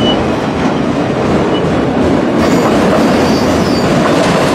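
Freight cars of a long CN mixed-freight manifest train rolling past, a steady loud rumble of wheels on rail with clickety-clack, and a few faint high wheel squeals about halfway through.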